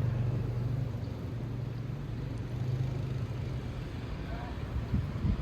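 Wind rumbling low and steadily against the microphone, turning into uneven gusts that buffet it near the end.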